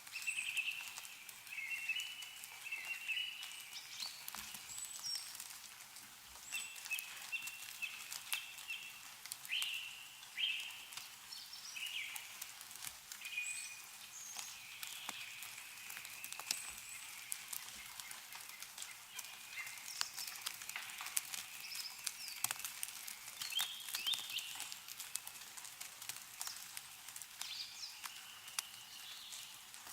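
Meltwater dripping and pattering from snow-covered trees as the snow melts, with small birds giving many short chirps and warbling calls.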